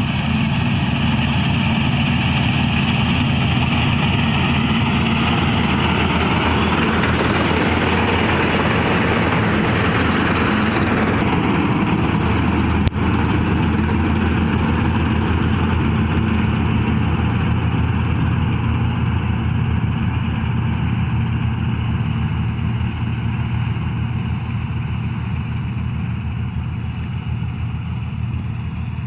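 Kartar 4x4 combine harvester's diesel engine running steadily in high gear, with a single sharp click about halfway through. It grows slightly quieter over the last several seconds.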